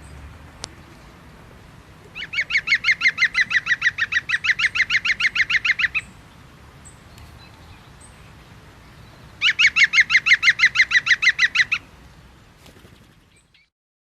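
A bird calling in two bouts of rapid, evenly repeated notes, about eight a second: the first lasts about four seconds, the second about two.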